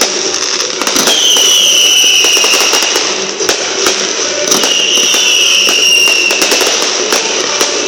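Fireworks display going off: a dense run of crackles and bangs, with two long falling whistles, about one second and four and a half seconds in.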